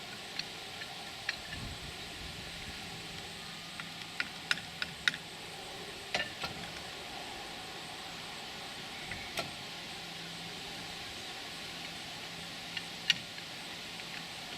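Steady hiss with scattered sharp clicks and knocks, the loudest about five seconds in and again near the end.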